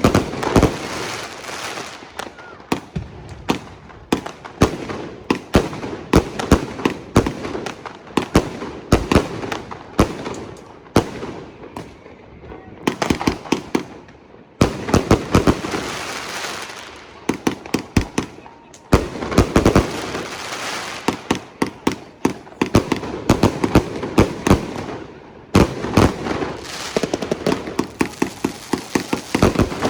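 Many fireworks and firecrackers banging in dense, irregular volleys, with a few short lulls.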